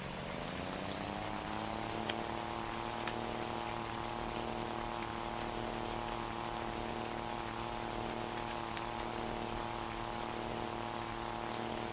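Scania Super 540 truck engine with a straight-through exhaust, its pitch rising over about the first second as it picks up revs, then running at steady revs. A single sharp click about two seconds in.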